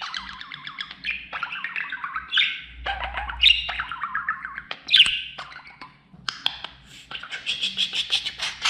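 Pet budgerigar warbling and chirping: a string of short, varied chattering calls, turning into a fast, even chatter near the end.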